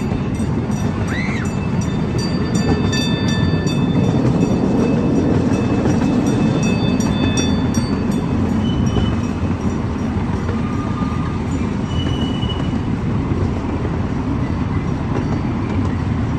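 Amusement park ride train rolling along its track, heard from aboard: a steady rumble of the cars and wheels, with a few faint high wheel squeals.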